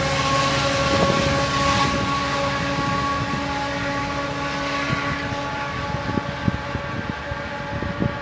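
GO Transit diesel commuter train pulling away, its steady whine and low drone slowly fading as it recedes. Scattered short knocks in the second half.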